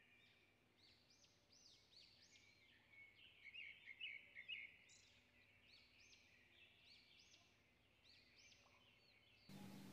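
Faint chirping and twittering of small birds in near silence, a little louder between about three and five seconds in.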